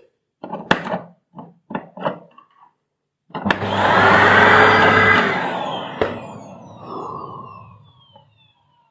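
Panasonic MC-CJ911 vacuum cleaner motor on its final test run after repair. A few light clicks of handling come first. About three seconds in the motor starts suddenly and runs at full speed with a rising whine. It is switched off with a click about six seconds in and winds down with a falling whine that fades away.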